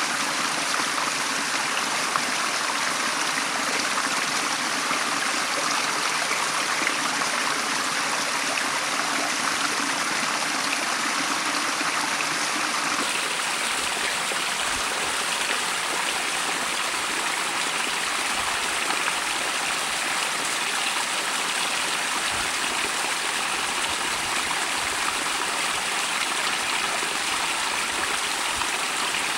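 A small stream running steadily through a rocky cleft, a continuous rush of flowing water. About halfway through the sound changes character, with occasional low thumps.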